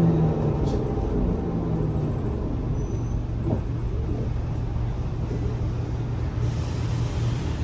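Scania L94UA city bus engine running with a steady low rumble, a falling whine fading just after the start. A hiss starts near the end, typical of the air brakes.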